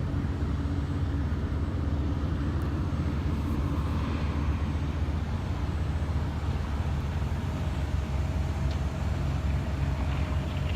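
A vehicle engine running steadily: an even low rumble.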